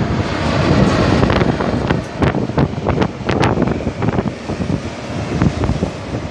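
An electric locomotive and passenger coaches passing close by, a loud rumble with sharp clicks and knocks from the train running on the rails. Wind buffets the microphone.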